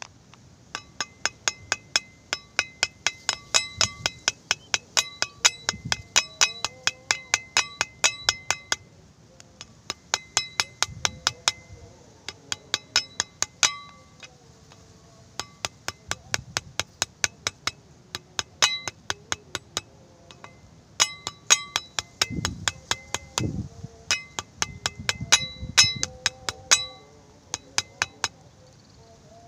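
A utensil clinking quickly and repeatedly against a hard, ringing container, about three or four strikes a second in runs of several seconds with short pauses, as when stirring a dye mix.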